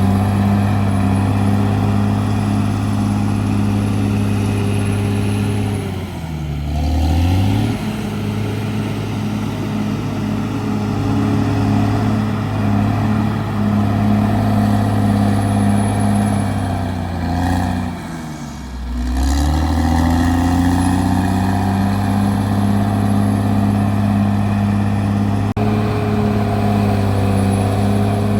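CAT D6R bulldozer's diesel engine running steadily under load; twice, about six seconds in and again near the middle, its revs drop sharply and then climb back up.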